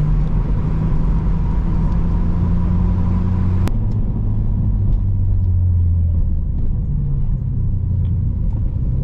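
Six-speed manual Nissan Altima's engine running under way, a steady drone that drops to a lower pitch about four seconds in, with a sharp click at the moment of the change, as on an upshift.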